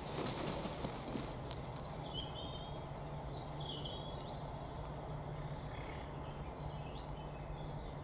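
A small bird calling: a quick run of about ten high, downward-sliding notes from about two to four seconds in, then a few fainter chirps. At the start there is a short rustle of a mist net being handled as a caught bird is worked free, and a low steady hum sits underneath.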